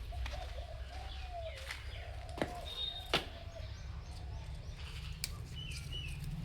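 Birds calling in the background with a few short high chirps, over a low steady rumble and a few sharp clicks.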